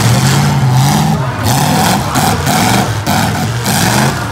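Demolition-derby cars' engines revving hard, their pitch rising and falling again and again as several run at once, over a dense roar.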